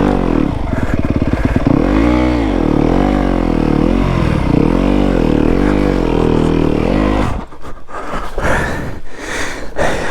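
Yamaha WR250F's 250 cc four-stroke single revving up and down in repeated swells as the rear wheel spins trying to climb off a log, then stalling suddenly about seven seconds in. Scraping and clattering follow.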